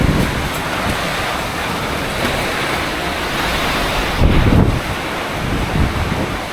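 Tropical storm wind, a steady noisy roar buffeting the microphone, with a stronger gust about four seconds in.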